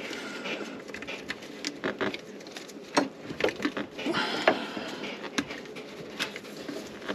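Irregular clicks, taps and rustling of hands and small tools handling electrical wiring, with a short burst of rustling about four seconds in.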